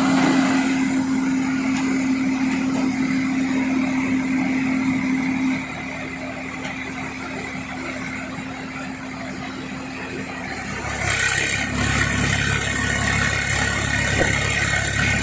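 Diesel engine of heavy farm and earth-moving machinery running with a steady drone. About a third of the way in it drops quieter, and shortly after two-thirds of the way a deeper, louder low rumble comes in as an engine works harder.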